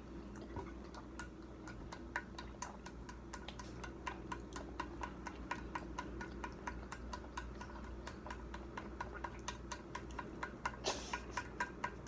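Quick run of small sharp clicks and cracks, several a second and uneven, with a louder crackle about eleven seconds in: snow crab shell being cracked and picked apart by hand and mouth.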